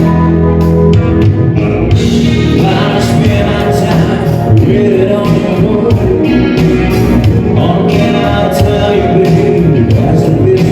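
A band playing a song with a singer over a steady drum beat, loud and continuous.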